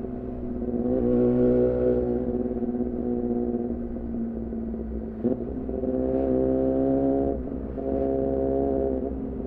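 2014 Yamaha R6's inline-four engine running through an R9 titanium muffler and Leovince header at a fairly steady engine speed. It swells louder several times: about a second in, from about six to seven and a half seconds, and again near the end. There is a brief sharp blip just after five seconds.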